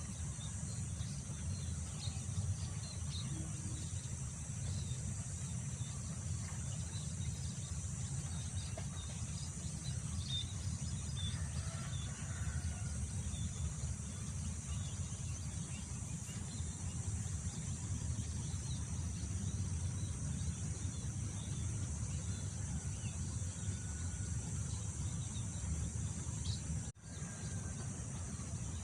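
Outdoor field ambience: a steady low wind rumble under a constant high-pitched insect drone, with scattered faint bird chirps. The sound cuts out for a split second near the end.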